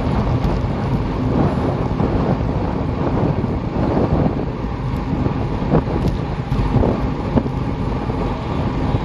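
Wind buffeting the microphone: a loud, steady low rumbling rush with a few faint clicks in the middle.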